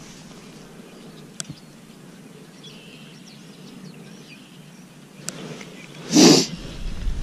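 Quiet outdoor background with a few faint bird chirps and a couple of small clicks, then a short, loud rush of noise about six seconds in.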